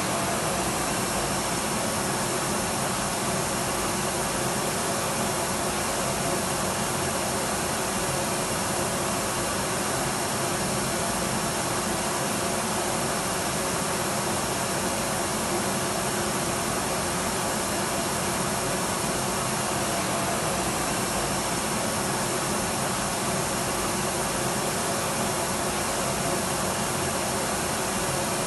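Electric vacuum cleaner running steadily: an even, unbroken motor and airflow whoosh with a faint steady whine, with no change in pitch or level.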